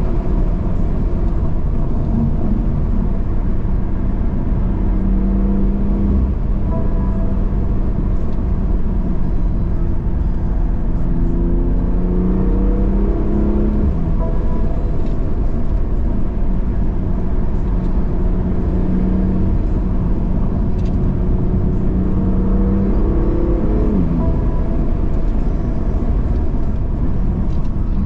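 BMW M2 Competition's twin-turbo straight-six being driven hard. Its note climbs with the revs and drops sharply at a gear change about halfway through, then again a few seconds before the end, over a steady low rumble.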